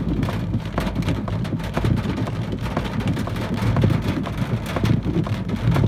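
Heavy tropical-storm rain falling in a dense, steady hiss, with many sharp drop hits and a deep rumble underneath.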